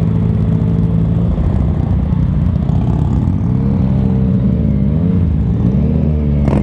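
Yamaha FZ-09 (MT-09) inline-three engine with an aftermarket exhaust running at low revs while riding slowly. Its pitch dips and rises again about four to five seconds in as the throttle is eased off and reopened.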